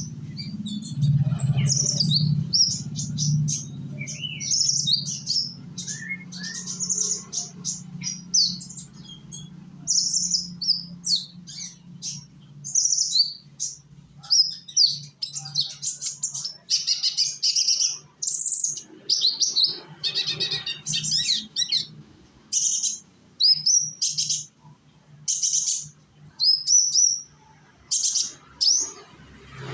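Young kolibri ninja sunbird singing: fast runs of high, thin chirps and twitters, breaking into short separate bursts with pauses in the second half. A low steady hum sits underneath and fades out about two-thirds of the way through.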